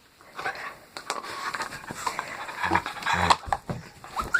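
A dog panting amid scuffling and movement, with a few low thuds about three seconds in.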